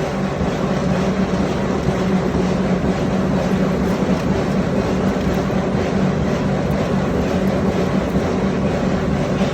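Heavy forging-shop machinery running steadily: a constant loud mechanical din with a low steady hum underneath, with no separate hammer blows.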